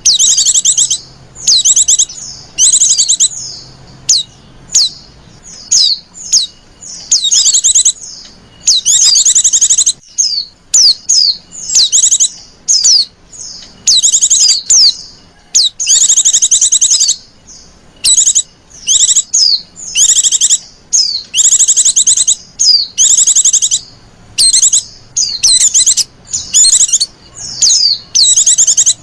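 Female white-eye (pleci) calling over and over: high, short trilled bursts and quick sharp chirps one after another with brief gaps. This is the coaxing female call used as a lure to draw male white-eyes.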